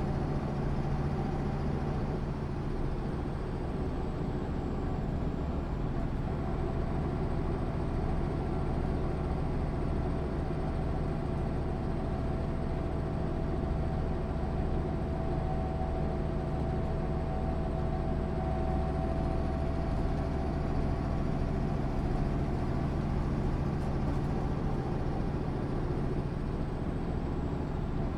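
1996 MAN SÜ 272 bus's diesel engine running steadily, with a faint high whine that slowly drifts up and down in pitch.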